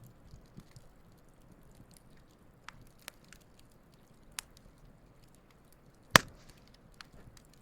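Wood campfire crackling, with scattered small pops and one loud, sharp pop about six seconds in.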